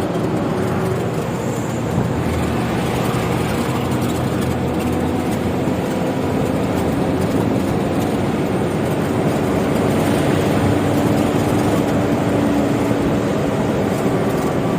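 Diesel truck engine running while the truck drives on biodiesel made from used cooking oil, a steady mix of engine and road noise. It gets a little louder about ten seconds in.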